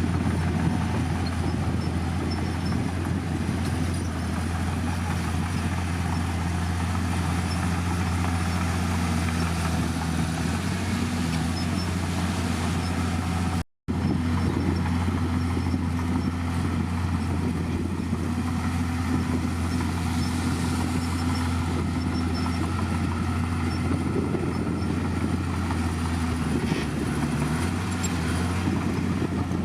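Bulldozer's diesel engine running steadily, its pitch shifting a little as the load changes. The sound drops out abruptly for a moment about 14 seconds in.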